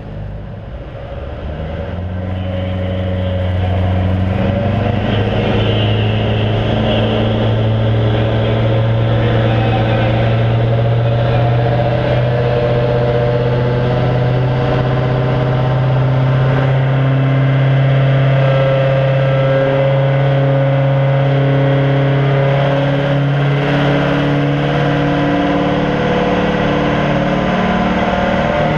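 Pro street class diesel pickup engine under full load on a pull, revs climbing over the first few seconds, then holding high and steady, with the pitch creeping slowly upward.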